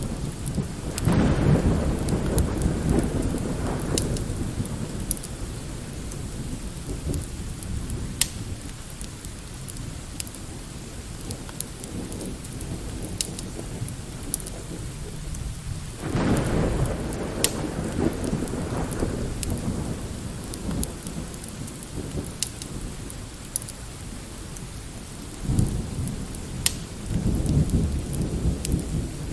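Steady light rain with thunder rolling three times: about a second in, again about halfway through, and near the end. A fire crackles in scattered sharp snaps throughout.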